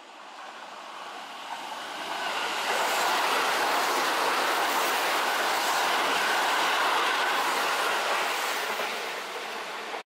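Keihan 1000 series electric train approaching and running past on the nearby track, a steady rumble of wheels on rails that builds over the first three seconds and holds loud. The sound cuts off abruptly about ten seconds in.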